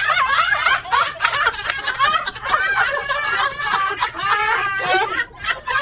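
People laughing hard: continuous high-pitched, wavering laughter.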